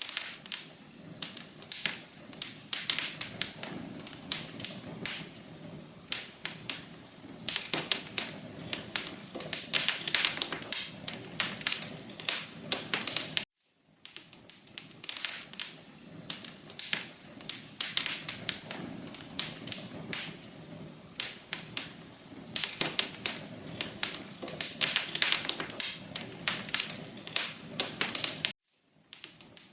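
Wood fire crackling in a fireplace: a dense, irregular run of sharp crackles and pops over a soft low hiss. It cuts out for a moment twice, near the middle and near the end.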